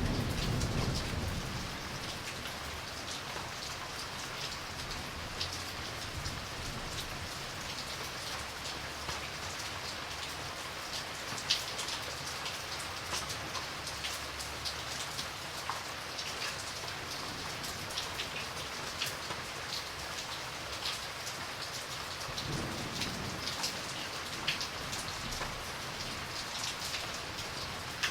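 Steady heavy rain, with many sharp drop ticks over an even hiss. Low thunder rumbles at the very start and again about 22 seconds in.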